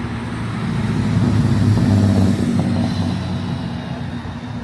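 A car driving past, its engine running with a low drone that grows louder to a peak about two seconds in and then eases off.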